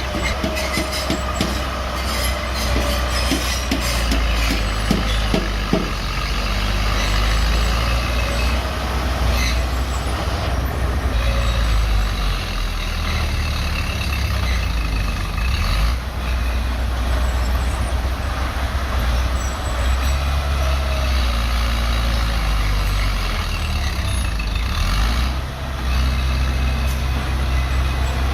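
Bulldozer's diesel engine running steadily under load, with a run of metallic knocks and clanks in the first few seconds.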